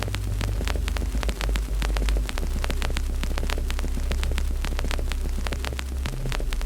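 Wood fire crackling in a fireplace, with frequent sharp pops and snaps over a loud, steady low hum.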